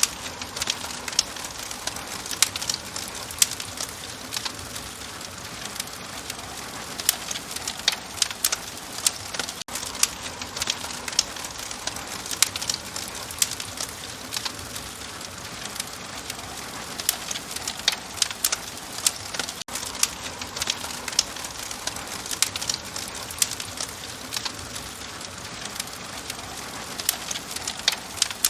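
Open fire crackling steadily: a soft hiss with frequent sharp pops and snaps, several a second.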